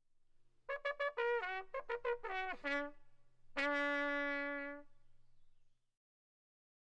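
A short brass phrase, trumpet-like: a run of quick notes, several sliding down in pitch, then one long held note that fades out.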